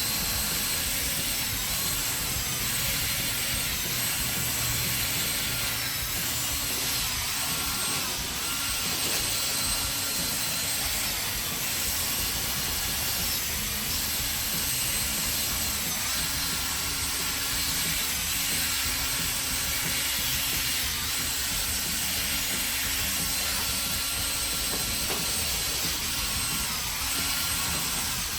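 Electric drill spinning an 800-grit sanding disc against a plastic headlight lens, a steady motor whine over the scrape of the abrasive pad. The whine dips in pitch briefly a few times as the disc is pressed and moved, then the drill stops abruptly at the end.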